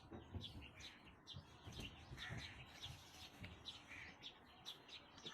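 Faint chirping of small birds, short calls repeating several times a second, with a few soft low knocks underneath.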